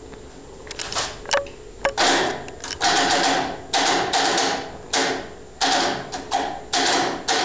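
Air-cooled VW flat-four engine in a buggy, revved in quick throttle blips about once a second. A few clicks come first; the revving starts about two seconds in.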